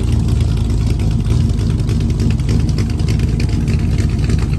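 GM LS V8 engine idling steadily and loudly, its exhaust pulses coming through clearly.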